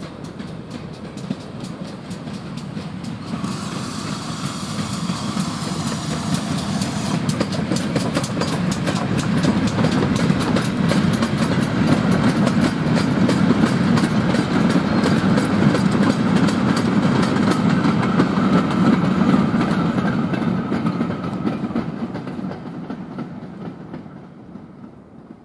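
A GWR 4200 class 2-8-0 tank steam locomotive passes hauling a goods train of short-wheelbase wagons. The wagon wheels clatter over the rail joints in a quick, even rhythm. The sound grows loud in the middle and fades near the end as the train moves away.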